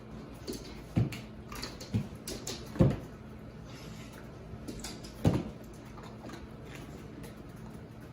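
A handful of dull knocks in a small room, the loudest about three seconds in and another past five seconds, over a faint steady hum.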